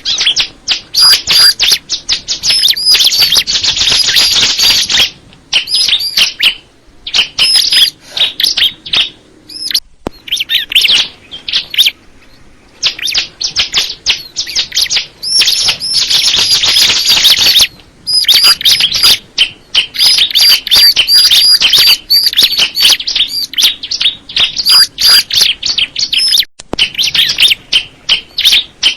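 Ciblek (bar-winged prinia) singing: loud, rapid, high-pitched chirps strung into phrases, with fast dense trills twice and short pauses between phrases.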